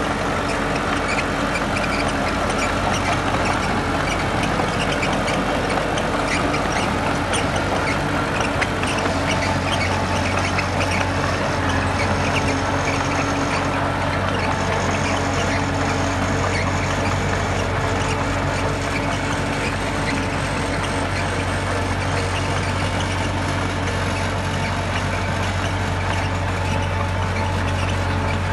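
Heavy diesel earthmoving machinery running steadily, with a continuous low engine hum and many squeaks and clanks over it.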